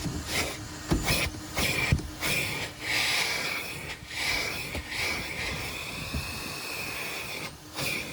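Car wash equipment hissing steadily as a friend cleans the car at a self-serve car wash, dropping out briefly several times.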